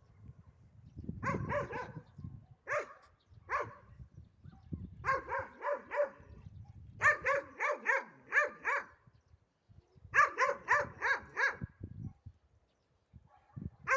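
A dog barking, first in ones and twos, then in quick runs of four to six barks.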